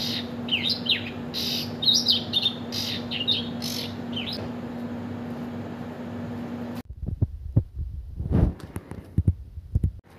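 Small birds chirping with quick rising and falling calls over a steady low hum. About seven seconds in the background cuts off abruptly, and a run of irregular low thumps and knocks follows.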